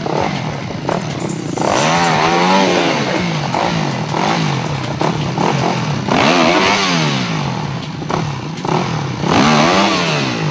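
Enduro dirt bike engine revving in about three hard surges, the pitch climbing and then falling between stretches of lower running, as the bike is worked over logs under load.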